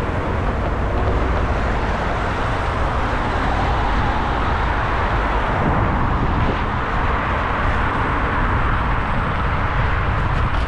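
Steady wind and road noise of an e-scooter ride through city traffic, with a low rumble of wind buffeting the action camera's microphone.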